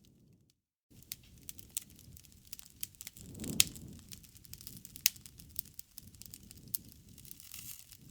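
Wood fire crackling, with scattered sharp pops over the low rumble of the flames; the loudest pops come around the middle. The sound cuts out briefly to silence just under a second in.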